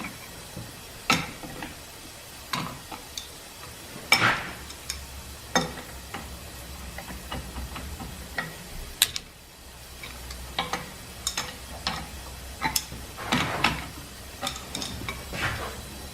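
Irregular metal clicks, taps and clunks of a steel drill jig and tools being handled and adjusted on a drill press table, over a steady low hum.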